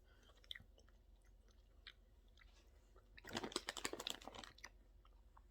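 A person chewing cotton candy close to the microphone: faint scattered mouth clicks, then about three seconds in a dense, crackly run of chewing sounds lasting about a second and a half.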